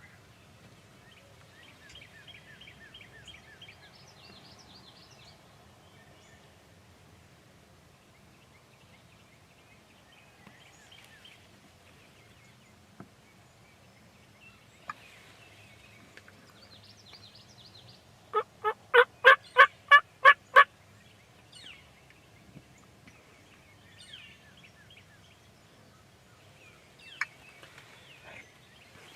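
A wild turkey calling with a run of about eight loud, evenly spaced notes over about two seconds, midway through. Faint songbird chirps come and go around it.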